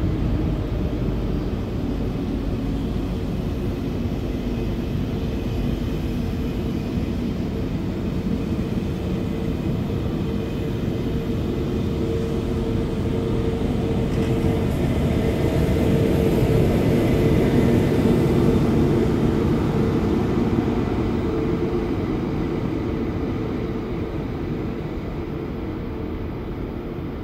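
ICE train rolling slowly past, a steady rumble with a low hum from its wheels and drive. It swells to its loudest about two-thirds of the way through, then fades as the train moves away.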